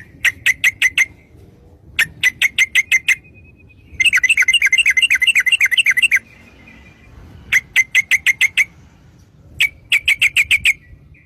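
Trucuk (yellow-vented bulbul) singing in fast 'ropel' bursts: runs of sharp repeated notes about a second long, five times, with one longer, faster run of about two seconds in the middle.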